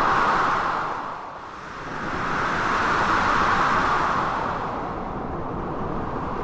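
Storm wind and sea surf blended into a continuous rushing noise. It swells, dips briefly about a second in, then swells again for a couple of seconds before easing off.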